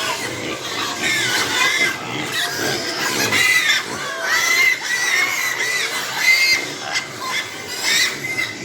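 Many Large White Yorkshire piglets squealing together, their high calls overlapping without a break.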